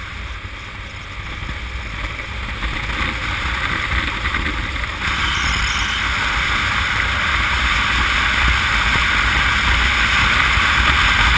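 Honda CM200T motorcycle under way: steady rush of wind over the mounted camera with the engine and road noise beneath, growing steadily louder, with a small step up about five seconds in.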